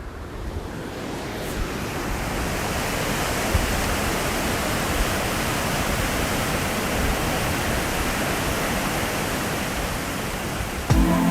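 Steady rushing of a waterfall, fading up at the start and then holding even. Music with sustained notes comes in near the end.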